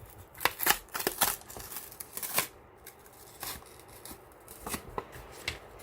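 Trading-card packs and boxes being handled: irregular short crinkles and taps of foil and cardboard packaging.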